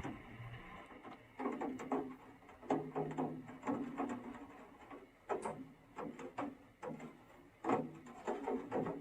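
Irregular clicking and knocking in quick clusters, a few to several a second with short pauses between, over a faint steady low hum.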